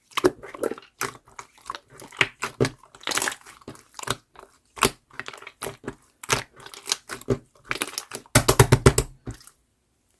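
Clear slime being pressed and stretched, giving irregular sticky popping clicks and crackles, with a quick run of louder pops about eight and a half seconds in.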